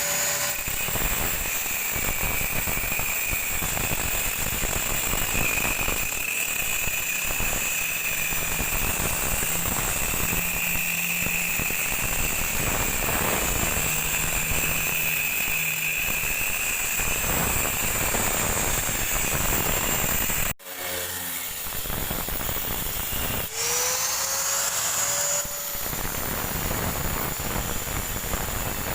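Electric grinder cutting into a refrigerator compressor's sealed steel casing, running steadily with a high whine. It cuts out suddenly about twenty seconds in and spins back up with a rising whine a few seconds later.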